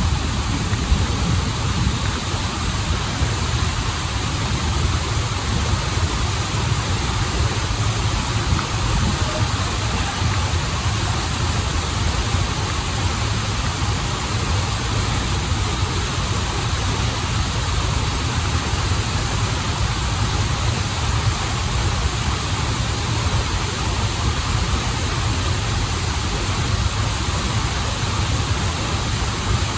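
Waterfall and stream water running: a steady hiss of falling water over a deep, even rumble.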